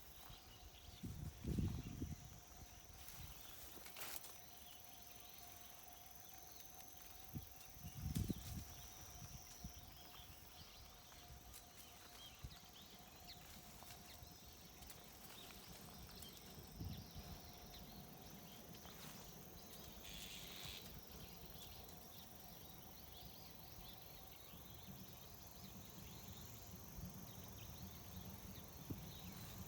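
Faint outdoor background with steady thin high tones, a few soft low thumps near the start and about eight seconds in, and one short higher sound about twenty seconds in.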